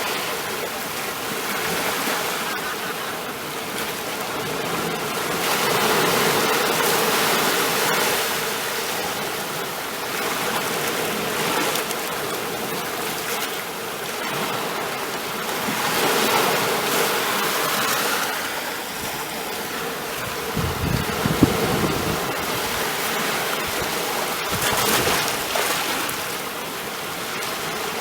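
Ocean waves washing onto a shore, a steady rush of surf that swells and eases every few seconds. About three-quarters of the way through there is a brief low rumble with a single sharp knock.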